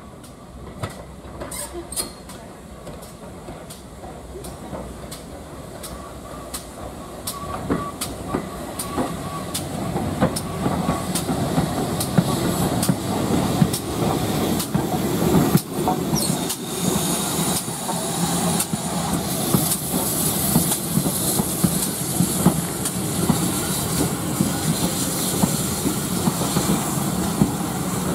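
Railway carriage wheels clicking over the rail joints. The clicks come faster and the running noise grows louder over the first ten seconds or so as the train gathers speed, then settles into a steady rhythm.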